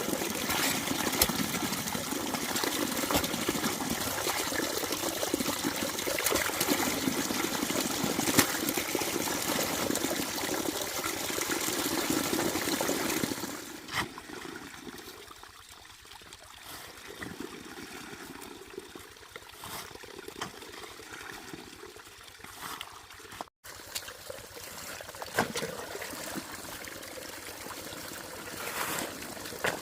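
Water running and trickling as a steady splashing rush, which drops off sharply to a much quieter trickle about thirteen seconds in, with a few small knocks.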